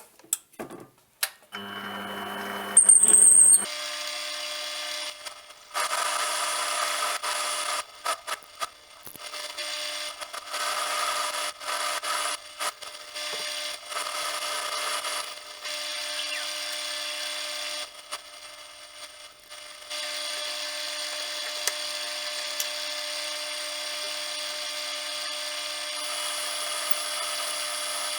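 Metal lathe: a few clicks and a brief high squeal, then the machine starts about three and a half seconds in and runs with a steady hum. Over the hum a cutting noise comes and goes.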